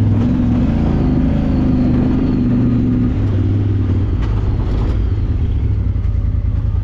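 Side-by-side UTV engine pulling at steady, moderate revs as the machine crawls up a steep rocky hill in low gear, the pitch wavering under load and then settling. A few faint clicks come about four seconds in.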